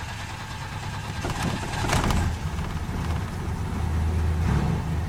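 1996 Chevy truck engine being cranked on the starter after sitting unused for a month, reluctant to start on a cold start, with the rumble growing stronger and steadier about four and a half seconds in as it begins to catch.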